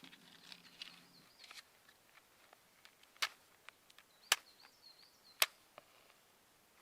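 Three sharp knocks about a second apart, with a few fainter ticks between them. A faint, high wavering chirp sounds twice, once near the start and again around the second knock.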